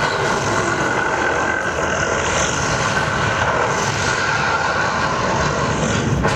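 Loud, steady rushing rumble from the mapping show's sound system, a roaring sound effect that takes over straight after the music cuts out.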